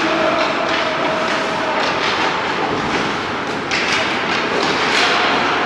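Ice hockey game under way in a rink: steady scraping of skate blades on the ice with several sharp clacks of sticks and puck, over a continuous din of the arena.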